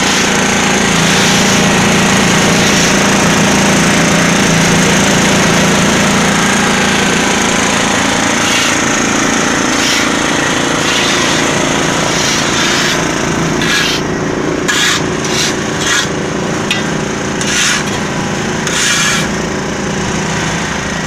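Diesel-engined concrete mixer running steadily, its drum churning with a grinding, rasping noise. From about halfway on, a series of short scrapes comes every second or so over the running.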